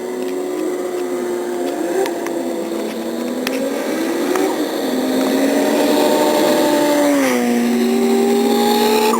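Single-turbo MKIV Toyota Supra inline-six under hard acceleration at high speed, its engine note climbing steadily and getting louder. The pitch drops sharply about seven seconds in and again right at the end, then starts climbing again.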